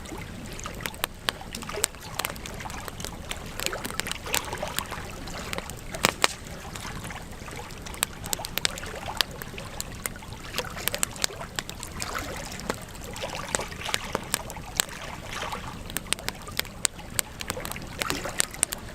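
Wood fire burning in a fireplace, crackling and popping at irregular moments over a steady hiss of flames, with a few louder pops, the loudest about six seconds in.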